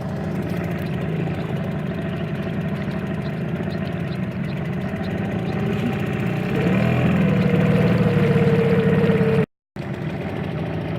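Hangkai 6 outboard motor running at low speed while being run in; about six and a half seconds in the throttle opens and it runs louder at a higher pitch, then near the end the sound drops out for a moment and comes back at the lower setting.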